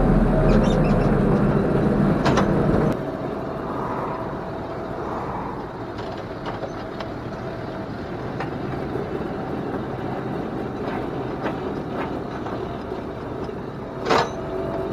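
Tractor running on the road. A loud low engine rumble drops sharply about three seconds in, then the noise runs on quieter and steady with a thin constant tone, and there is one short, sharp, louder sound near the end.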